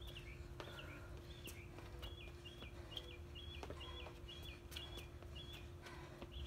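A songbird chirping repeatedly, short up-and-down notes that quicken into a run of about three a second in the middle, with faint taps of sneakers hopping on concrete.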